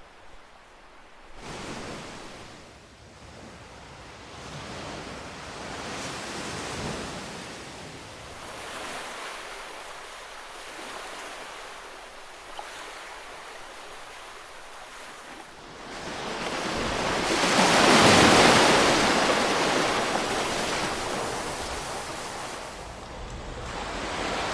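Calm ocean waves washing onto the shore, rising and falling in slow swells. One larger wave builds and breaks about two-thirds of the way through, then draws back.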